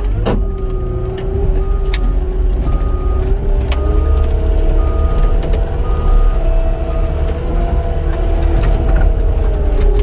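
Heavy-equipment diesel engine running under load, its pitch rising about four seconds in and dropping back near the end, with a backup alarm beeping about once a second and a few sharp knocks early on.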